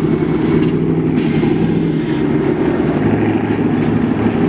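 Deep, steady exhaust rumble of a car engine at low speed, with no revving.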